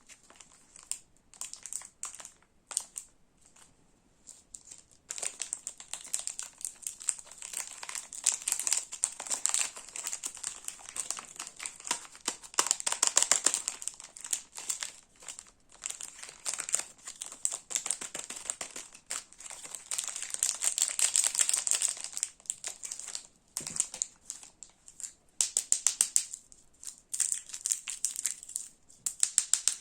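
Crinkly sweet wrappers being handled and unwrapped, in bursts of dense crackling with short pauses between.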